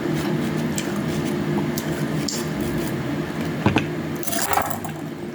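Close-up mouth sounds of chewing juicy honey orange segments: wet squishing and small smacking clicks, over a steady low hum.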